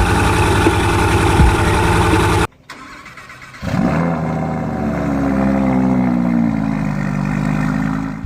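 A car engine cold start: after a short quieter stretch, the engine catches about three and a half seconds in with a flare of revs, then settles into a fast idle whose pitch slowly falls. Before that, another engine's loud running cuts off suddenly.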